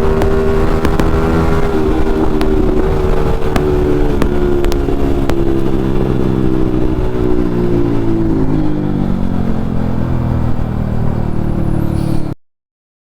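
Yamaha MT-15's single-cylinder engine running through an aftermarket Akrapovic exhaust, its pitch mostly steady, dipping slightly and rising again. The sound cuts off suddenly shortly before the end.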